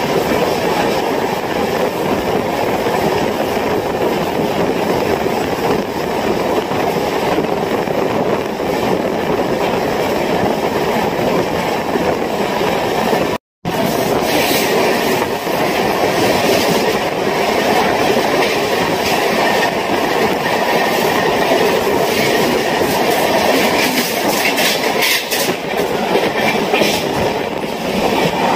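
Steady rumble and clickety-clack of an express train's wheels on the rails, heard from its open door. After a brief dropout about halfway, an oncoming train hauled by a WAP-7 electric locomotive passes close by on the next track, and the clatter grows sharper, with many quick clicks.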